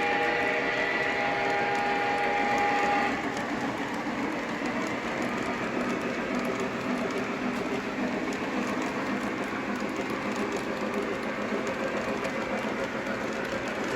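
Lionel Legacy consolidation O-scale model steam locomotive sounding a multi-note steam whistle from its sound system, which cuts off about three seconds in. After that the locomotive runs on along the track with a steady mechanical whir of motor, gears and wheels.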